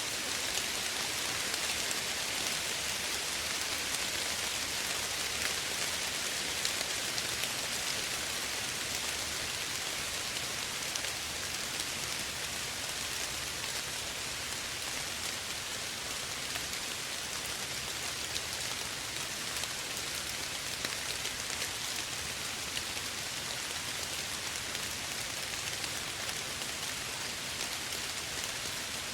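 Steady, soft rainfall: an even hiss of rain with scattered individual drops ticking on a surface.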